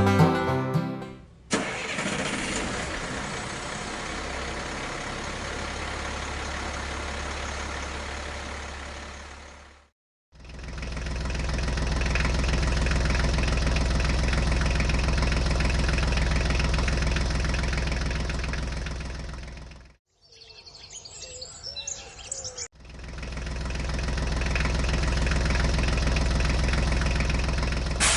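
Tractor engine running steadily, heard in three long stretches that each fade in and out, with short breaks between them. A snatch of banjo music ends just after the start.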